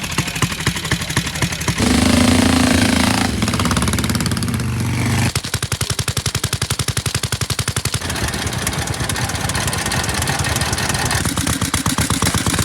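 Vintage motorcycle engines running, each firing stroke heard as a rapid, even popping beat. A louder, smoother stretch runs from about two to five seconds in, then the beats come out separately again.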